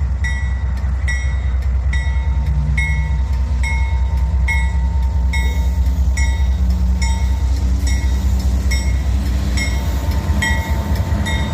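Diesel freight locomotives pulling away, their engines running with a heavy low rumble that changes pitch partway through, while the locomotive bell rings steadily about twice a second.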